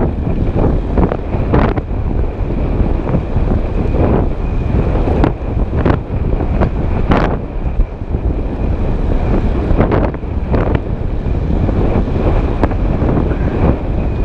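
Heavy wind buffeting the microphone on a moving road bike ridden into a headwind, gusting unevenly, with scattered short knocks and rattles.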